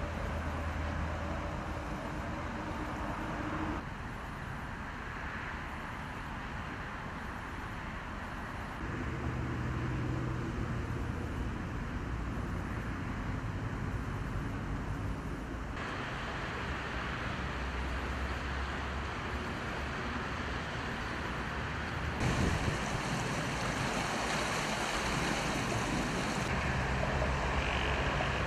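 Rushing water of a waterfall swollen and muddy after heavy rain, a steady noise that shifts in loudness and tone at several cuts between shots.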